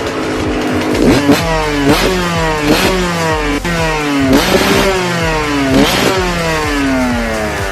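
Yamaha YZ125's two-stroke single-cylinder engine exhaling through an FMF Titanium Powercore 2.1 silencer. The throttle is blipped repeatedly, about once a second, and each sharp rise in revs falls away before the next.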